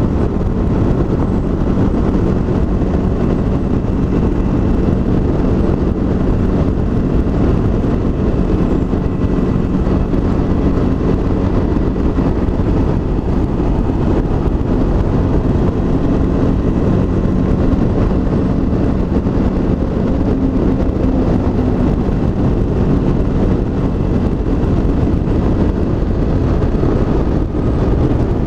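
2017 Honda CB500X's 471 cc parallel-twin engine running at a steady cruising speed under riding load, with heavy wind rush over it.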